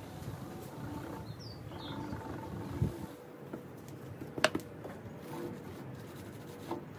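A few brief, high bird chirps about one and a half seconds in over a low steady background, with a sharp click just after four seconds in, the loudest sound.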